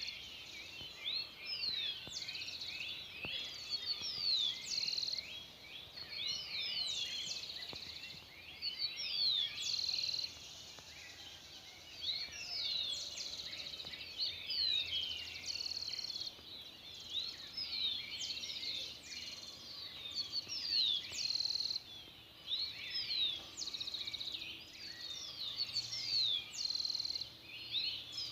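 Dawn chorus of many birds before sunrise: overlapping chirps and quick sweeping whistled notes, with one bird repeating a short, fast trill every few seconds.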